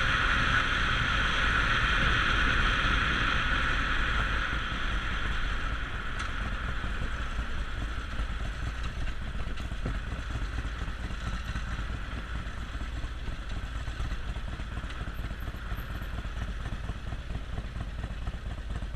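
Harley-Davidson Sportster Forty-Eight (XL1200X) motorcycle's 1200 cc V-twin engine. A loud higher-pitched noise over the engine fades away during the first five seconds, leaving the engine idling steadily and more quietly.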